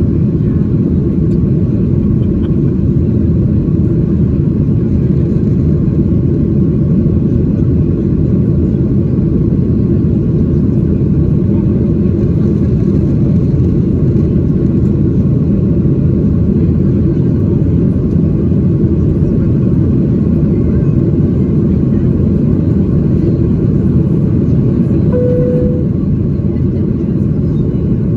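Steady, loud, deep rumble of a Boeing 737-800's CFM56-7B jet engines at high thrust, heard inside the passenger cabin. A brief single tone sounds about 25 seconds in.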